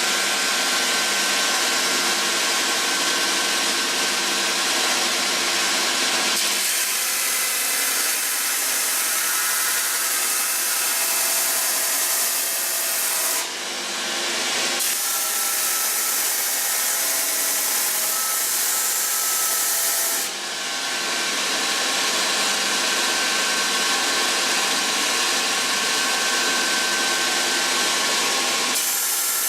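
FEIN GKS 75 compact belt grinder running and grinding metal: a continuous abrasive rasp over a steady whine, with the sound briefly dipping and changing a few times.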